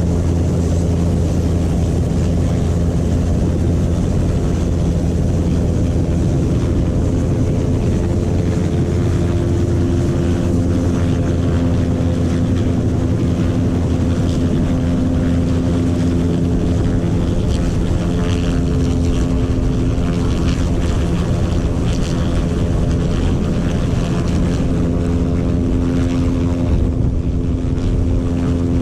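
Helicopter in flight: steady engine and rotor noise with a constant low hum.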